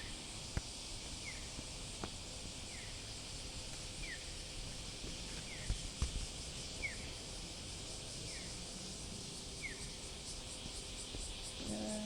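Cicadas droning in the trees, a steady high hiss that turns into a fast pulsing rhythm near the end. A short falling chirp repeats about every second and a half over it, with a couple of faint knocks.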